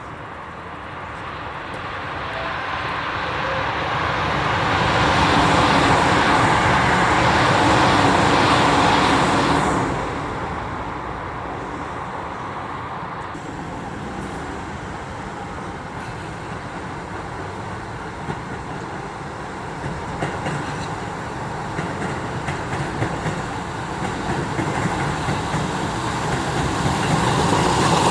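Electric trains passing on the rails. A Keisei AE-series express swells to a loud pass about five to ten seconds in and then drops away. Then an Odakyu 5000-series commuter train runs by, its wheels clicking over the rail joints and growing louder near the end.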